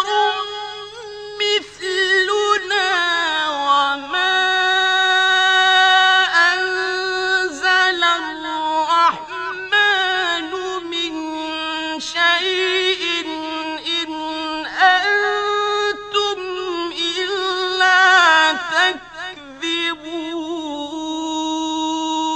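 A man's voice reciting the Quran in a slow, melodic tajweed style. He holds long notes high in his range and bends them with ornamented turns, pausing briefly for breath between phrases.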